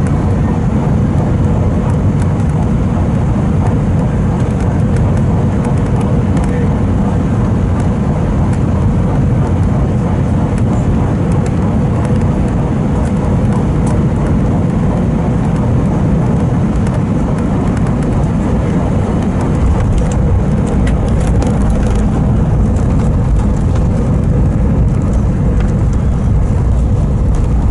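Cabin noise inside an Airbus A320 during its landing: a steady, heavy low rumble of engines and airflow with a faint steady hum above it, getting a little louder about twenty seconds in.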